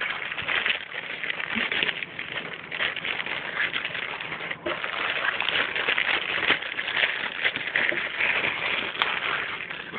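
Packaging rustling and crinkling steadily as it is handled close to the microphone, a dense run of small crackles.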